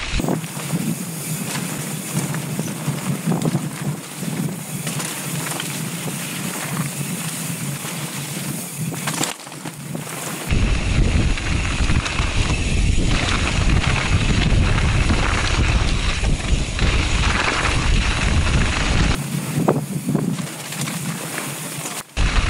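Wind rushing over a helmet-mounted camera's microphone and mountain bike tyres rolling and rattling down a dirt trail. About ten seconds in the sound switches abruptly to a heavier low rumble, which drops away again near the end.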